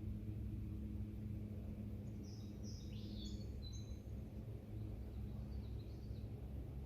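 Outdoor evening ambience: a steady low hum, with small birds giving a quick cluster of short, high chirps in the middle and a few fainter ones after.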